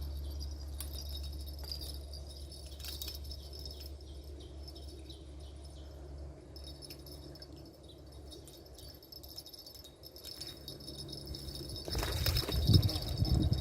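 Steady high-pitched insect chorus over a low hum that fades about halfway through, with a few faint ticks or jingles. Near the end a sudden loud, noisy disturbance breaks in.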